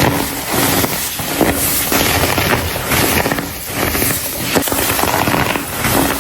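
Blocks of compressed baking soda crumbling and crunching close to the microphone, a dense crackle that swells with each squeeze about once a second.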